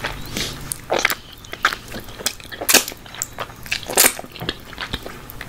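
Close-miked chewing of barbecue-sauced chicken drumstick meat, with irregular wet mouth clicks. The loudest click comes about four seconds in, as sauce is sucked off the fingers.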